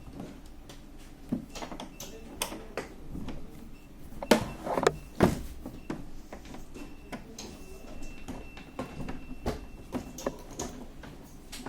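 Irregular clicks and knocks of a screwdriver and hands working on the plastic casing of an Epson PLQ printer while it is being unscrewed and opened from the back, with a louder cluster of knocks about four to five seconds in.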